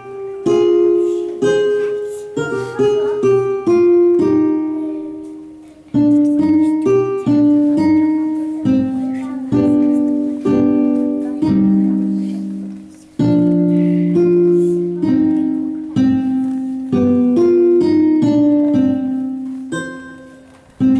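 Instrumental guitar music: a slow melody of plucked single notes and chords, each note struck sharply and ringing away.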